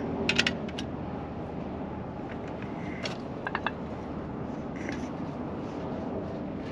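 Wrench and fasteners clicking and scraping as a 1/4-20 nylock nut is snugged down on a hinge bolt: a few short metallic clicks near the start, more around the middle, over a steady low hum.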